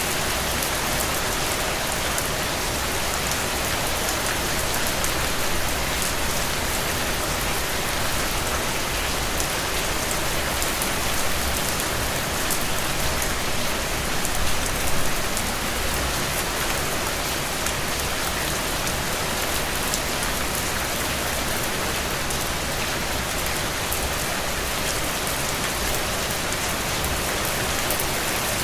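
Heavy, steady rain falling on open ground and puddles, a dense even hiss with countless fine drop ticks throughout.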